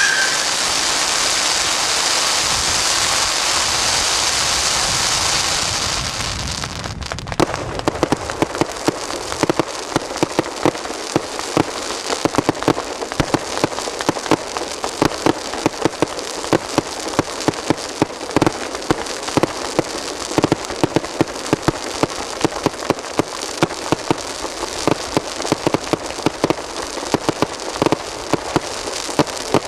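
Fireworks: a steady hiss for the first six seconds or so, then, from about seven seconds in, dense crackling with many sharp pops a second, like crackling stars going off.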